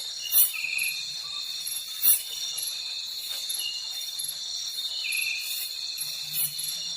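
Night chorus of crickets and other insects: a steady high drone with short chirps repeating over it. Two sharp, loud clicks stand out, one near the start and one about two seconds in.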